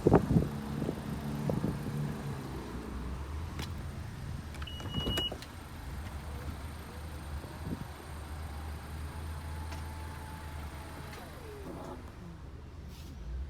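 A 2021 Honda CR-V running at a steady idle, with a few clicks from the car and one short high electronic beep about five seconds in.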